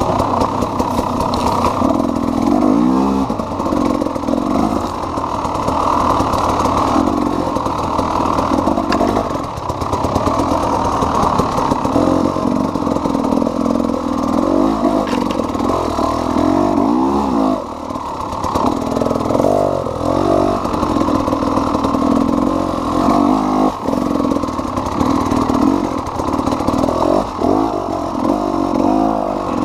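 KTM EXC 300 two-stroke single-cylinder enduro motorcycle engine being ridden, revving up and down over and over as the throttle is opened and closed.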